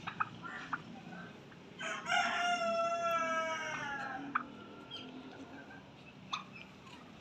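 A rooster crowing once, a single long call of about two seconds, with short clicks and chirps before and after it.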